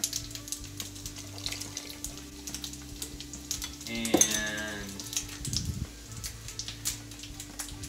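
Cubed tofu frying in a pan, with a low sizzle and the knocks of a wooden spoon stirring it. Vinegar trickles into a measuring spoon. A short pitched sound, falling in pitch, rises above the rest about four seconds in.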